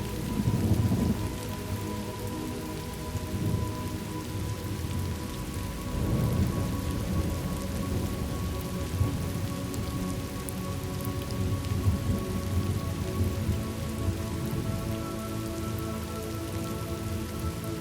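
Steady rain falling, with low rolls of thunder swelling just after the start and again about six seconds in.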